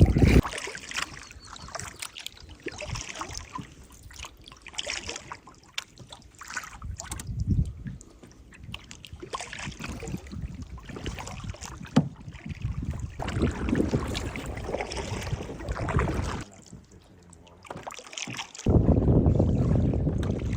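Canoe paddle strokes: the blade dipping and pulling through the water, with splashes and drips coming and going every second or two and an occasional knock. Gusts of wind rumble on the microphone briefly at the start and again near the end.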